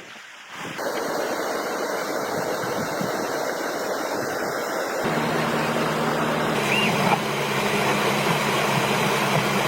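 A steady rushing hiss, joined about five seconds in by the steady low hum of a running motor.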